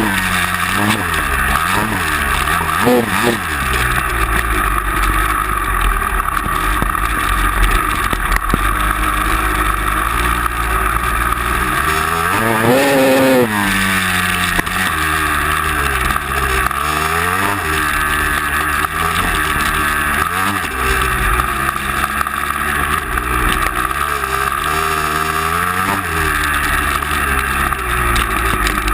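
Motor vehicle engine running under load, its pitch climbing and dropping repeatedly with the throttle, with a sharper rev and fall about halfway through, over a steady drone of driving noise.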